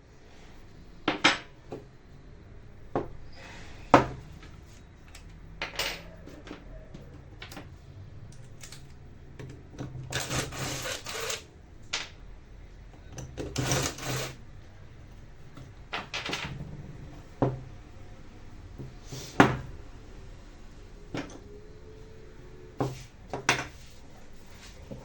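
Irregular clicks, knocks and clatter of small hard parts being handled on a workbench while the Black+Decker 7750 angle grinder is worked on, with two longer noisy stretches about ten and fourteen seconds in. The grinder's motor is not running.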